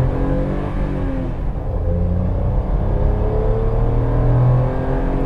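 Maruti Alto K10's three-cylinder petrol engine revving hard under full-throttle acceleration, heard from inside the cabin. Its pitch climbs, drops back at an upshift of the automated manual gearbox about two seconds in, then climbs again.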